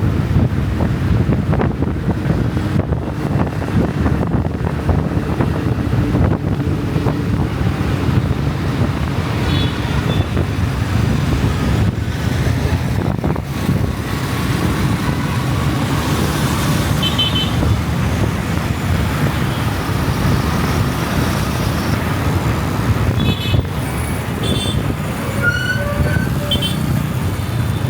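Riding a motorcycle through busy city traffic: steady rush of wind and road noise, with vehicle horns tooting briefly about ten seconds in, again a few seconds later, and several times near the end.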